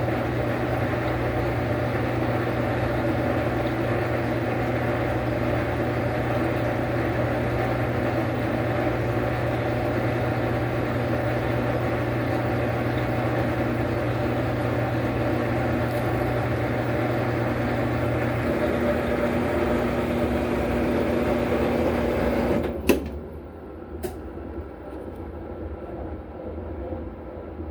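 Washing machine running with a loud, steady mechanical hum whose pitch shifts up about two-thirds of the way through. A few seconds before the end a sharp click comes and the machine noise drops away to a much quieter sound, with a second click a second later.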